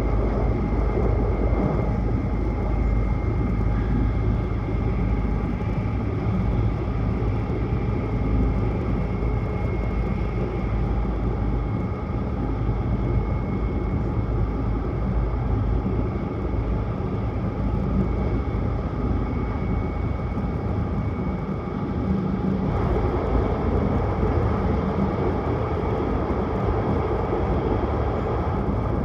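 Tohoku Shinkansen train running at speed, heard from inside the cabin: a steady rumbling running noise with a faint high whine. About three-quarters of the way through, the noise turns rougher.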